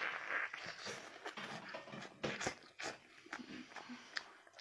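A child biting and chewing a large piece of braised pork belly: irregular wet smacks and mouth clicks.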